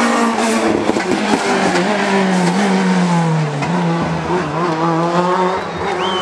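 Race car engine revving hard on a hillclimb run, loud throughout, its pitch sagging and then jumping back up about three and a half seconds in.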